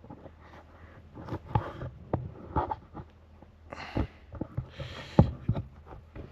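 Scattered clicks, knocks and short rustles of a power cord and plug being handled as it is plugged in, over a faint steady low hum.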